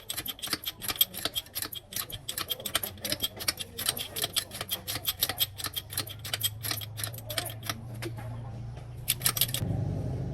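Rapid sharp clicking, several clicks a second, which stops about nine and a half seconds in. A low steady hum comes up beneath it from about six seconds in and is louder near the end.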